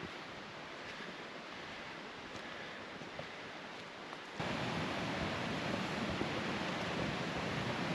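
Steady rushing of a mountain stream, an even hiss with no distinct events; about four and a half seconds in it jumps abruptly louder and fuller.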